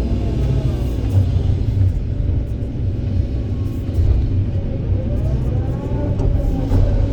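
Kobelco SK200 excavator's diesel engine running with a heavy low rumble, its hydraulics whining up and down in pitch as the machine works.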